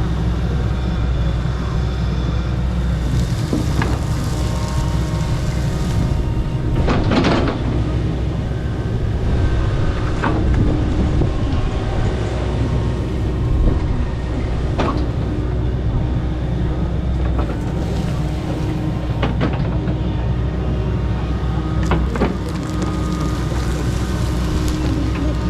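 Kobelco SK85 MSR 8-ton excavator's diesel engine running steadily under load while clearing overgrowth, with a few sharp cracks and crunches as vegetation and debris are torn out.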